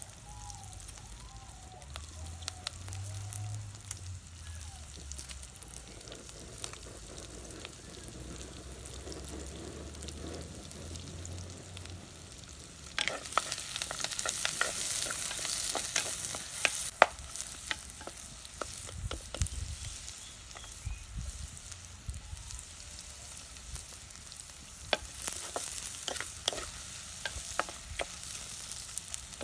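Onions and curry leaves frying in hot oil in a clay pot over a wood fire, with sharp clicks and scrapes from a ladle stirring. About halfway through the sizzle gets suddenly louder and brighter as sliced green vegetables go into the oil, then settles back to a steady frying sizzle with more stirring clicks near the end.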